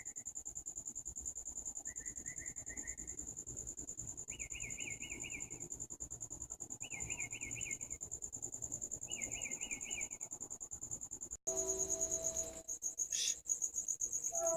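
Crickets chirping in a steady, high, fast pulse, with a short buzzy trill repeating every two to three seconds. About eleven seconds in, the sound cuts abruptly to a different recording with several steady low humming tones.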